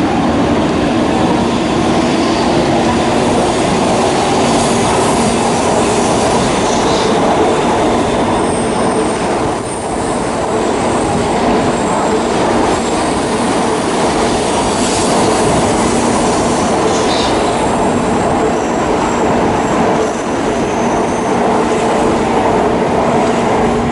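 Shinkansen train moving at a platform: a steady loud rumble with a low hum, and faint high-pitched wheel squeals coming and going.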